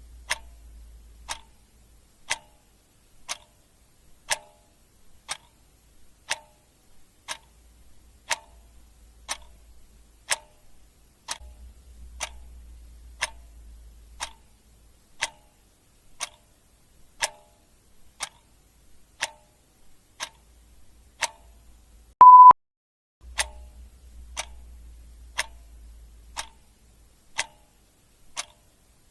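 Clock ticking steadily, about one tick a second. A single short high beep cuts in a little past twenty seconds in, louder than the ticks.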